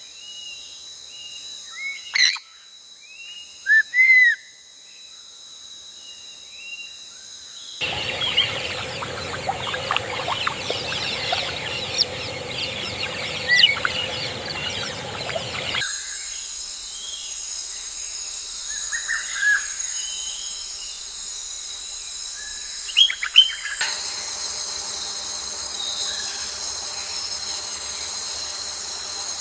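Wild birds chirping and calling in short, scattered phrases over a steady high insect trill. The background changes abruptly several times, with a rushing noise under the birds through the second quarter.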